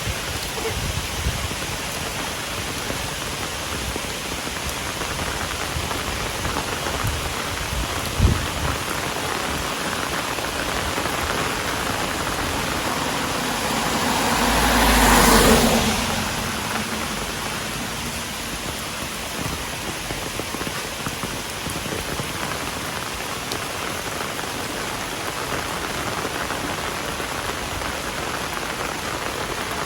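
Heavy rain falling steadily. About halfway through, a louder rushing sound swells and fades over a few seconds, and there is a single short thump a little earlier.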